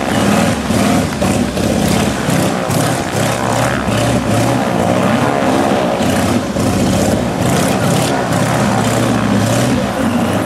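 Sukhoi Su-31 aerobatic plane's nine-cylinder radial engine and propeller running loud, the pitch rising and falling through the manoeuvres.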